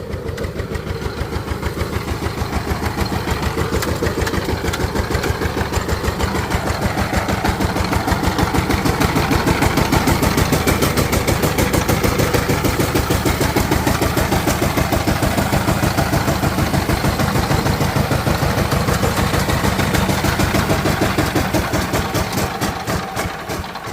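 Diesel engine running steadily with a fast, even firing beat, rising slightly in level in the middle and easing down near the end.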